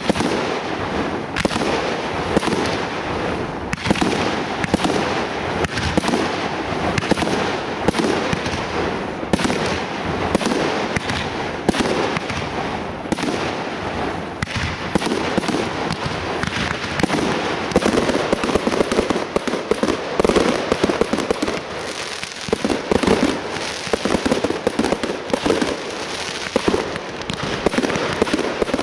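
Aerial fireworks going off in rapid, near-continuous succession: launches, shell bursts and crackling stars, several sharp bangs a second with no pause, a little denser and louder about two-thirds of the way through.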